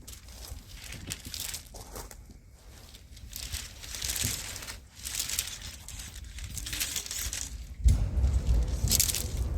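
Crinkling and rustling of material being handled, in repeated swishes, with a louder, deeper stretch of handling noise near the end.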